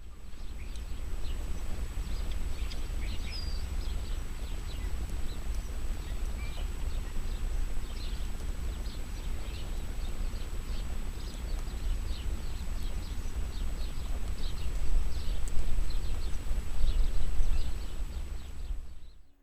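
Strong gusty wind buffeting the microphone with a deep rumble, swelling louder near the end, while small birds chirp over it.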